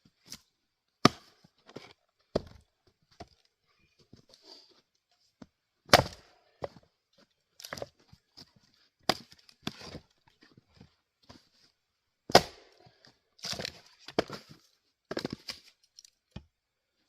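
Adirondack single-bit axe striking and splitting firewood on a chopping block: sharp chops every few seconds, the loudest about six and twelve seconds in, with lighter knocks and cracks between.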